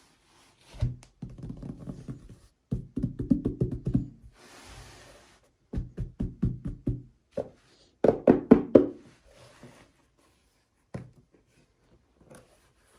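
Unboxing handling noise: four bursts of rapid clicks and knocks with short pauses between them, and a brief hiss near the middle.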